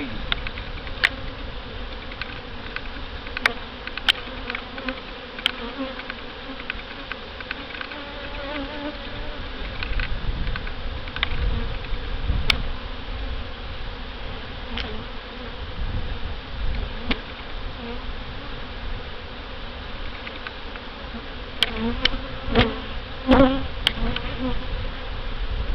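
Honey bees buzzing around an open hive: a steady hum, with a few louder buzzes from bees close by near the end. Scattered sharp clicks sound over it.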